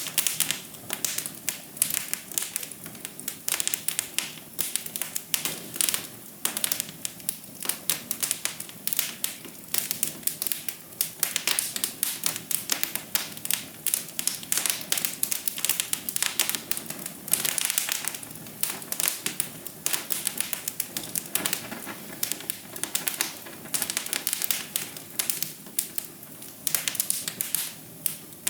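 Wood fire in a fireplace crackling: a dense, irregular run of sharp pops and snaps, several a second, over a soft hiss.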